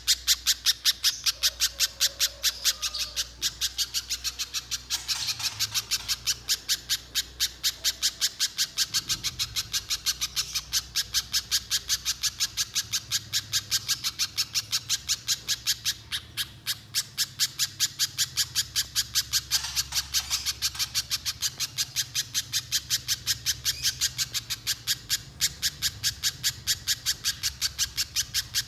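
Little spiderhunter (pijantung pisang) calling nonstop: a rapid, even run of sharp, high chips at about three to four a second. This is the long, unbroken 'gacor' calling that is used as a lure recording for other spiderhunters.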